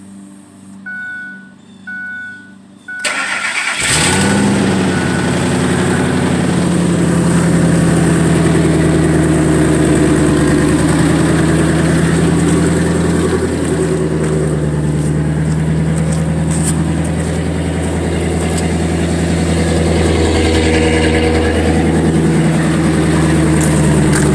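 Three short chime beeps, then a 2002 Ford F-250's 5.4 L V8 cranks briefly, catches about four seconds in and settles into a steady cold idle. The exhaust is damaged, so the idle is loud and raw.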